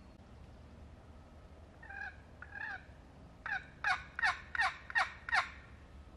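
A series of turkey yelps: two softer notes, then six louder, quicker ones, each falling in pitch.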